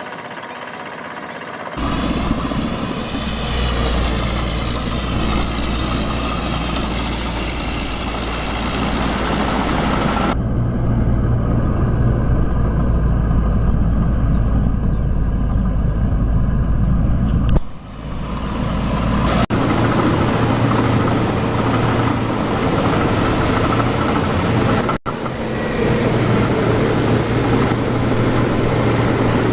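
Tractor engines running under load as they try to pull out of mud, in several clips cut together; the sound changes abruptly a few times. In the first long stretch a high whine runs along with the engine, rising slightly.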